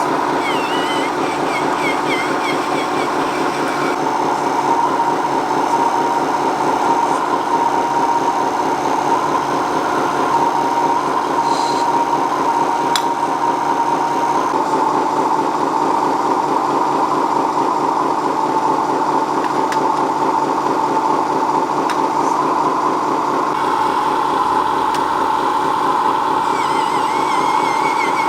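Small electric motor and gearbox of a radio-controlled model vehicle running with a steady whine, its pitch wavering slightly now and then.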